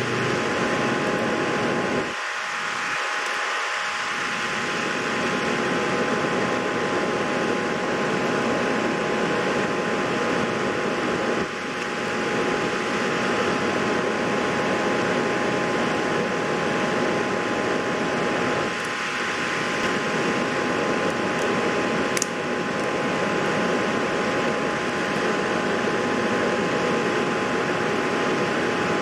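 Steady whirring of a fan, an even rushing hiss with two faint steady tones, and a single small click about 22 seconds in.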